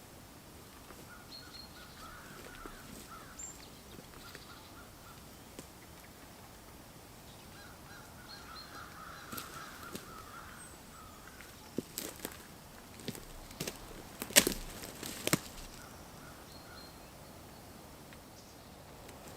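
Birds calling in quick chattering runs, twice. Then a handful of sharp knocks or clacks come in a cluster about two-thirds of the way through.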